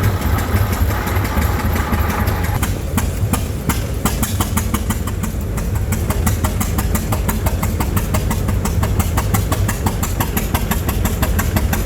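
Antique engine running at a steady beat with a strong low rumble. From about three seconds in, a quick, even train of exhaust beats, roughly five a second, sits on top of it.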